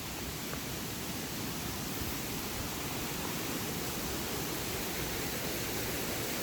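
Steady rushing of water from a waterfall on a lake's outflow stream, slowly growing a little louder as the falls come nearer; it sounds really loud and wild.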